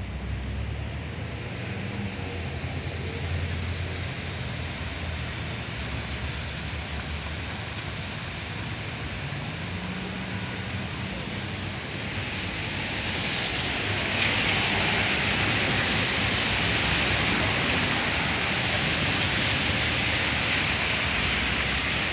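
Rain falling steadily as an even hiss, growing louder and heavier about thirteen seconds in.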